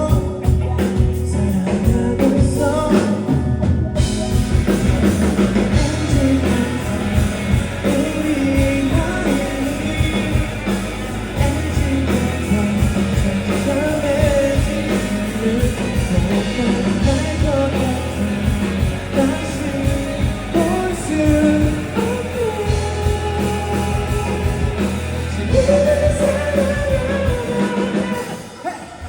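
Live rock band performing, a lead vocalist singing over drums and guitar. The band's sound gets fuller about four seconds in, and dips briefly near the end.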